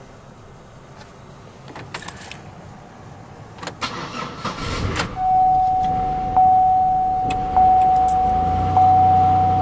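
Keys jangling, then the 2008 Pontiac Grand Prix's 3.8-litre Series III V6 cranking and catching about five seconds in on a cold start at 31°F after sitting overnight. The car's warning chime then dings steadily about once every second and a bit, the loudest sound, over the engine idling.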